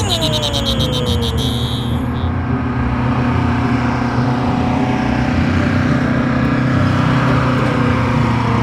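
A car engine running steadily. In the first two seconds it is joined by a falling whistle-like glide and a high shimmering jingle.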